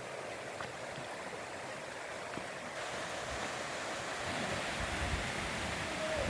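Mountain stream rushing over rocks, a steady rush that grows louder and brighter about three seconds in, with low rumbles of wind on the microphone in the second half.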